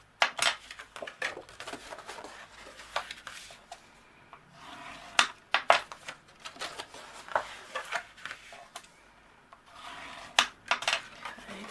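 Scored cardstock being folded along its score lines and creased flat, giving irregular crisp clicks and crackles of card in bunches, with quieter gaps between.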